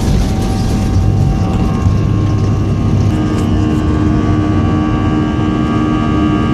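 Airliner cabin noise during the climb after take-off: the steady rush of engines and airflow, with a set of steady engine tones coming in about three seconds in.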